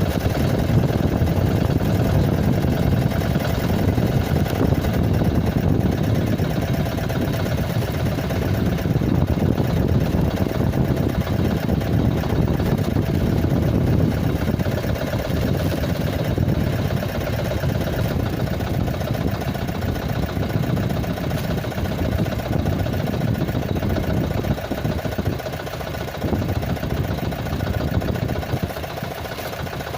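Small boat engine running steadily, an even drone with a faint steady hum above it that eases slightly near the end.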